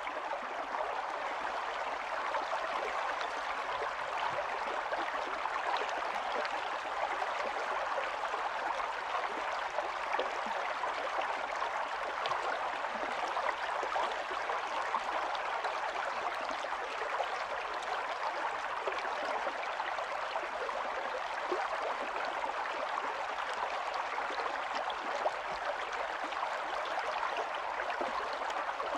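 Stream water running steadily over stones, a continuous rush with fine gurgling and splashing detail.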